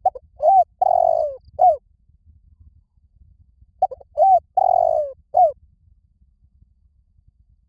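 Spotted dove cooing: two phrases about two seconds apart, each of four notes, two short, a long drawn-out one, and a short final one. It is the dove's territorial call, used to stir decoys and draw wild doves in.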